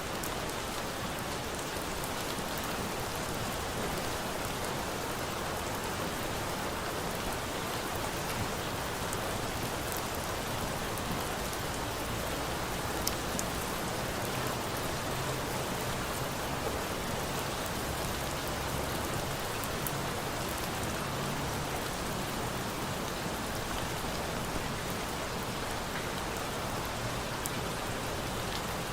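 Steady rain falling, a dense even hiss, with scattered sharp pops and crackles from a bonfire mixed in.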